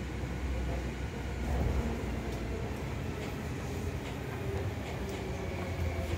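Interior running noise of a Seibu 101-series resistance-control electric train slowing into a station: a steady low rumble of wheels and running gear, with a few faint clicks.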